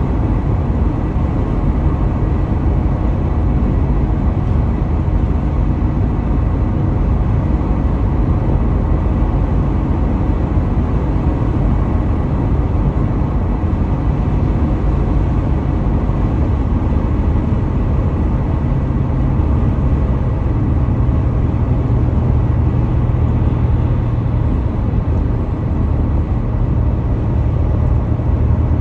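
Steady road and tyre noise of a car at highway speed heard inside the cabin: an even, heavy low rumble that holds level throughout, with a faint steady high tone.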